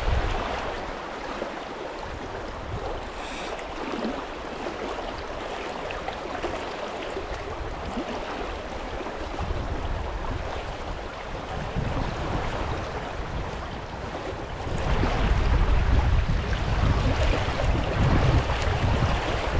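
Fast river current rushing steadily around a wading angler. About fifteen seconds in, a low rumble comes in and the sound gets louder.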